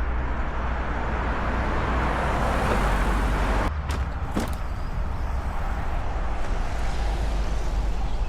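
Wind buffeting the microphone of a moving e-bike: a steady rush with a deep, uneven rumble, swelling about two to three seconds in. A few sharp clicks come around four seconds in.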